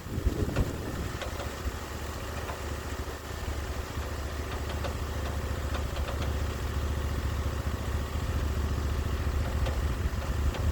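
Sawmill engine running steadily, a low hum that grows slightly louder toward the end.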